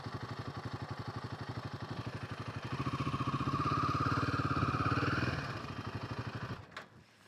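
Royal Enfield Himalayan 450's single-cylinder engine running at a slow, even pulse. It swells louder for a couple of seconds in the middle, then dies away and stops near the end, with a click or two.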